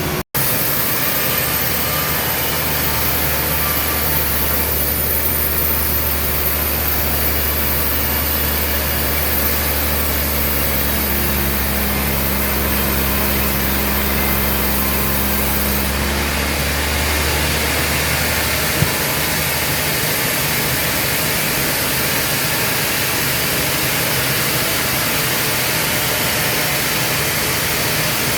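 Sawmill machinery running steadily. A low hum underneath stops about two-thirds of the way through.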